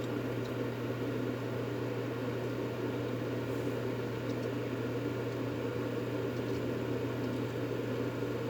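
Steady white-noise track for lulling a baby to sleep: an even, unbroken low hum and rush that does not change.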